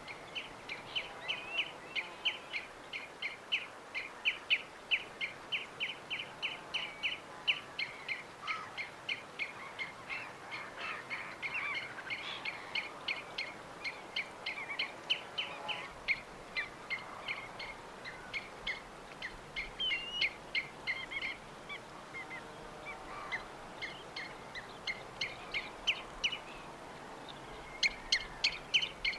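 Birds calling: a long run of short, high notes repeated about three times a second, turning more varied and irregular in the middle, with a cluster of sharper notes near the end.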